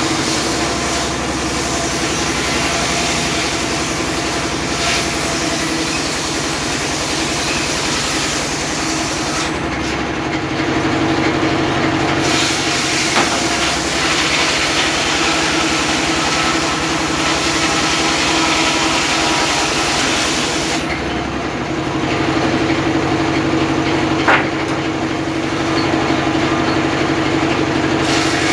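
Homemade circular saw rig running steadily with a constant whine while sawing teak into rafters. The high hiss of the cut falls away briefly about ten seconds in and again for most of the last seven seconds.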